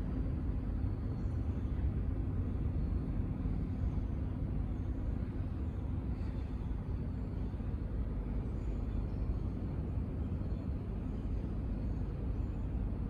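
Steady low rumble of distant engines, holding level throughout with no rise or fall.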